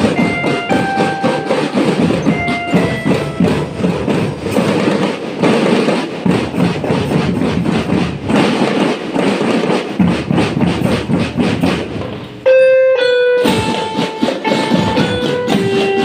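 Marching band drum section playing: continuous snare and bass drum patterns with short melodic notes over them. About twelve seconds in, the drums drop out for about a second under a loud, clear held note, then the drumming picks up again.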